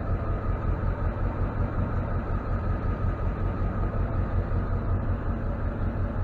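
Ford F550 tow truck's engine idling, a steady low running sound with an even pulse.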